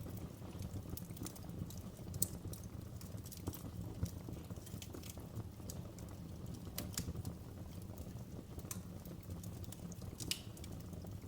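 Wood fire burning in a fireplace: irregular sharp crackles and pops over a steady low rumble of the flames, with a few louder pops at about two, four and seven seconds in and again near the end.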